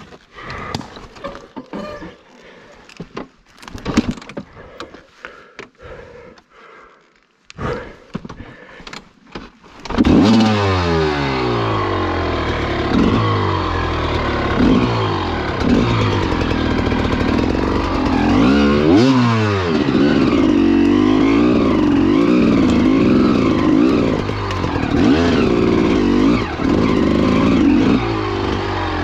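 Scattered knocks and scrapes with no engine running, then about ten seconds in the 2002 GasGas EC300's two-stroke engine comes in abruptly and runs loudly, revving up and down repeatedly.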